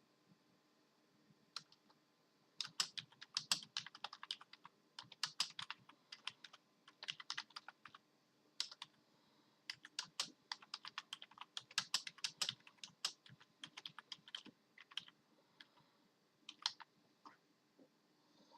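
Computer keyboard keys being pressed in irregular flurries of clicks, some quick runs and some lone taps, with short pauses between them.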